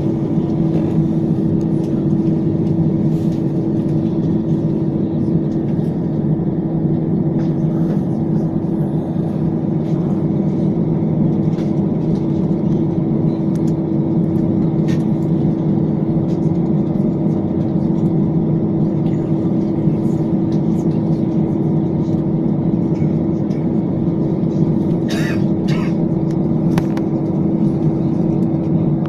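Steady mechanical drone with a constant pitched hum, from the machinery running at an aircraft being de-iced. A few light ticks come near the end.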